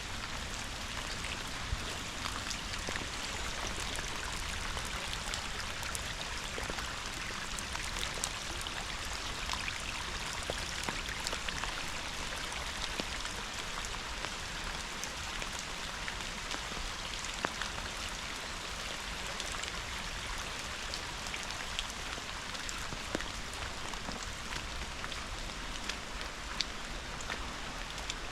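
Steady rainfall, with many separate drops landing close by as sharp ticks over an even hiss.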